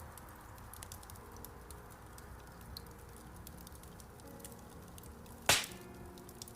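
Wood fire crackling in a fireplace: scattered small snaps, then one loud, sharp pop about five and a half seconds in.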